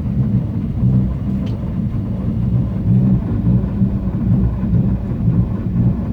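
Starter cranking the carbureted 1974 GMC truck's engine in deep cold (about −5 °F), turning it over with a steady pulsing rumble and not yet catching.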